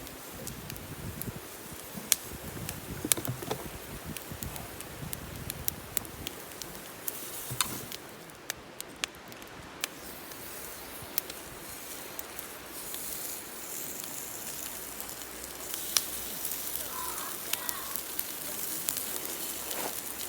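Wood campfire crackling, with scattered sharp pops and snaps. Past the middle a steadier hiss comes up under the pops.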